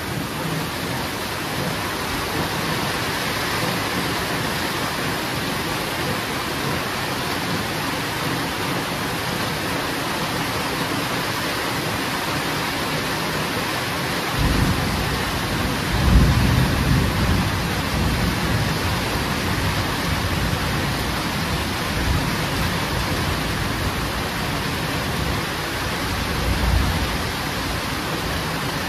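Steady heavy rain falling, with rolling thunder that rumbles in about halfway through, peaks a couple of seconds later and swells again near the end.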